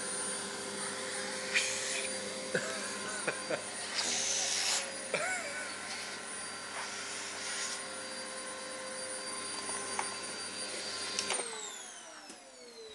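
Vacuum cleaner running steadily, then switched off near the end, its motor spinning down in a falling whine.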